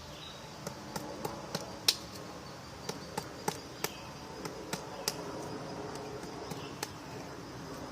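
Woodpecker pecking at wood: about a dozen sharp taps at uneven intervals, one much louder about two seconds in, over steady background noise.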